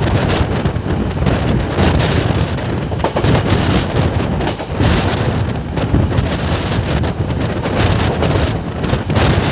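Wind buffeting the microphone over the steady rumble of a passenger train running at speed.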